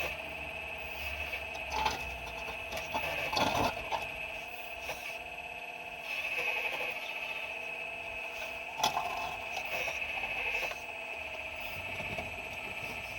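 Excavator working with a steady high-pitched whine from its drive, with scraping clunks of bucket on rock about two seconds in, around three and a half seconds in, and near nine seconds in.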